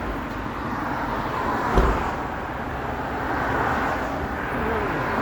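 Steady vehicle and road traffic noise, with a single thump about two seconds in.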